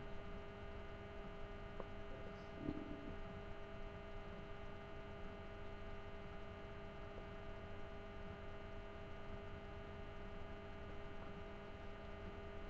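Steady electrical mains hum with many overtones, with one brief soft handling noise about three seconds in.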